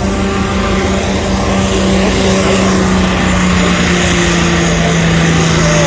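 A modified pulling tractor's engine running hard at high revs, loud and steady, its note slowly sagging in pitch.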